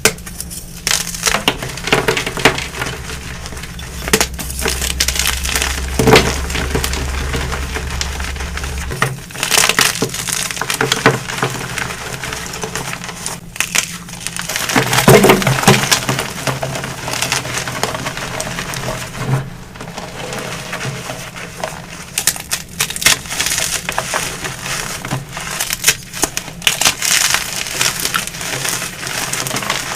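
Blocks of dyed gym chalk being crushed: dense, continuous crunching and crackling with frequent louder crunches. A steady low hum runs underneath and stops about nine seconds in.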